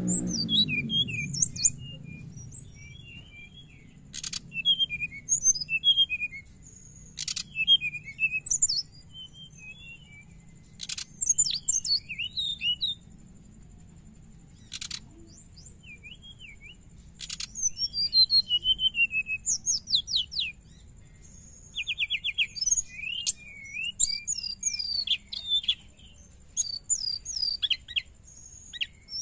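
Brown-chested jungle flycatcher singing in repeated bouts of quick, high chirps, slurred notes and rapid twittering trills, with short pauses between bouts. A few sharp clicks fall among the bouts, over a faint steady high whine.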